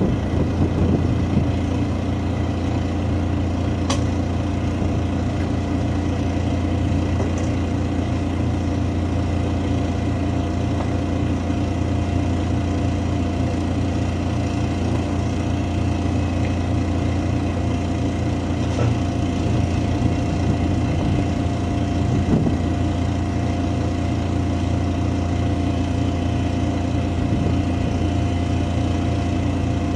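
Large diesel engine idling steadily, a constant low hum with a faint steady whine above it, and a few faint clicks about 4, 19 and 22 seconds in.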